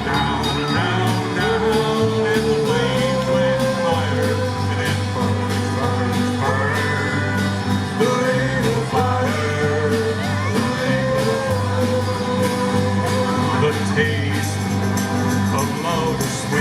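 A live band playing a song, with a singer's voice over a steady, repeating bass line and drums.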